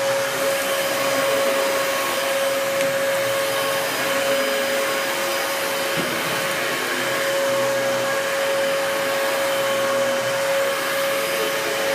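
Dyson DC33 upright vacuum cleaner running steadily over carpet: an even rush of air with a steady motor whine.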